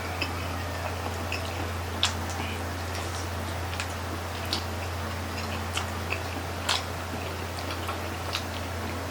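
Chewing and wet mouth clicks from people eating grilled chicken-intestine (isaw) barbecue sticks: scattered short smacks and clicks at uneven intervals, the loudest about two seconds in and near the seventh second. A steady low hum runs underneath.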